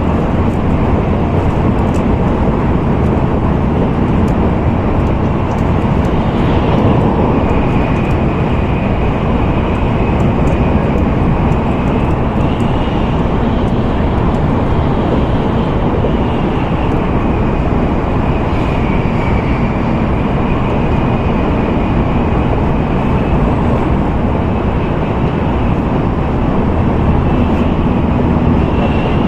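N700A Shinkansen train running at speed, heard inside the passenger cabin: a steady rumbling noise with a faint high whine that drifts slightly in pitch.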